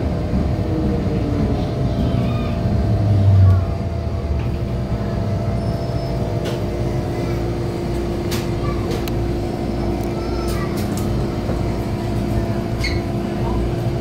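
Disneyland Resort Line train drawing to a stop: the whine of its motors falls in pitch over the first few seconds, a low thump comes about three and a half seconds in, and then the stopped train gives a steady electrical hum, with a few small clicks and faint voices.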